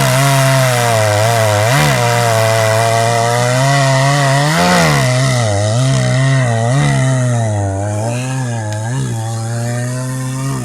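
Two-stroke chainsaw running near full throttle while cutting through wood. Its engine pitch dips and rises repeatedly as the chain bites and eases.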